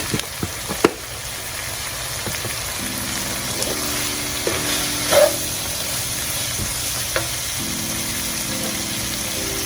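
Peppers, onions and garlic sizzling in butter in a pot, with a spoon clicking against the pot a few times near the start and a louder clink about five seconds in.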